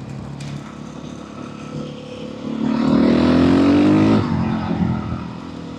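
Motorcycle engine running with its stock exhaust, then accelerating hard about halfway through, its pitch rising for under two seconds before the throttle shuts and it drops back to a low running hum.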